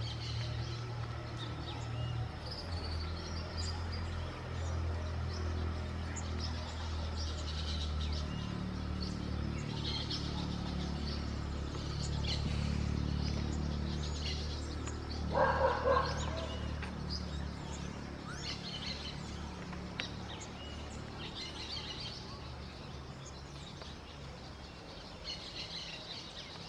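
Small birds chirping in short, high calls every second or two, with one louder, lower call about halfway through, over a steady low hum.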